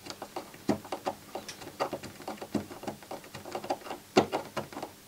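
Irregular light clicks and taps, a few a second, from work on an opened NAD 523 CD changer whose disc carousel fails to spin.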